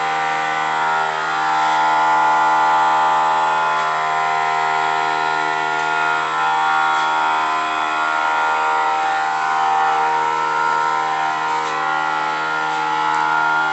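A steady motor hum with several constant tones, unchanging in pitch.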